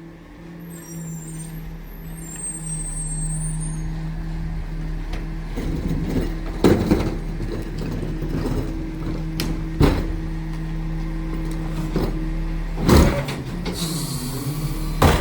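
Garbage truck's diesel engine running steadily and getting louder over the first few seconds, with several loud bangs and clanks of its work from about six seconds in, and a hiss of air near the end.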